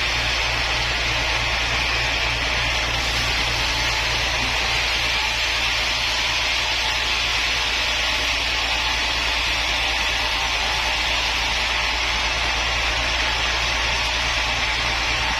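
A woodworking machine running steadily: a low motor hum under an even hiss, with no change in pitch or load.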